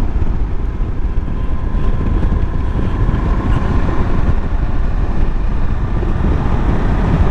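Riding on a Suzuki V-Strom DL1000 motorcycle: heavy wind rush on the camera microphone over the V-twin engine running steadily under way.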